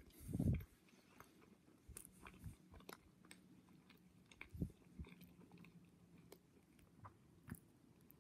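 Faint chewing of a moist caramel-and-pecan brownie: soft, scattered mouth clicks, with a low thump about half a second in.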